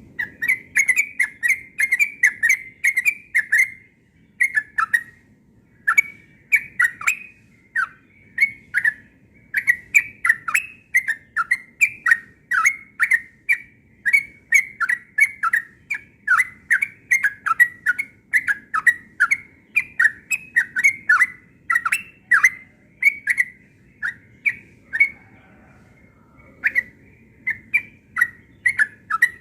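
Yellow-vented bulbul (trucukan) singing hard in a fast, unbroken run of short chirping notes, several a second. The song stops briefly about four seconds in and again near the end.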